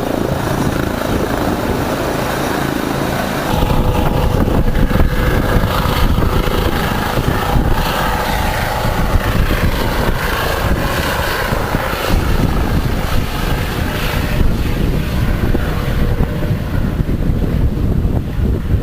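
Boat motor running under way, with wind buffeting the microphone; the rumble gets louder about three and a half seconds in.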